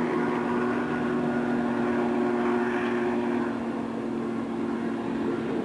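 Dubbed-in sound effect of a passing train: a steady mechanical running noise under a low, unbroken hum.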